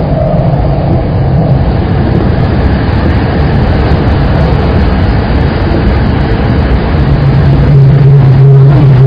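Saikyo Line electric commuter train running at speed: a steady rumble of wheels on rail, with a low hum growing louder about seven seconds in.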